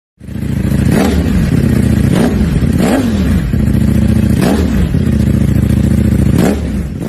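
V4 superbike engine revved with about five quick throttle blips, each a sharp rise and fall in pitch over a steady idle. It cuts off suddenly at the end.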